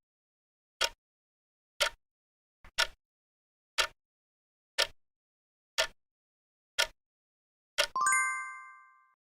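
Quiz countdown-timer sound effect: a clock-like tick once a second, eight times, then a bright bell chime about eight seconds in that fades away, marking that the 10-second answer time is up.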